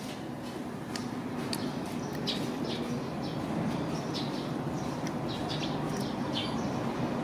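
Small birds chirping: many short, high chirps at irregular spacing, over a low steady hum.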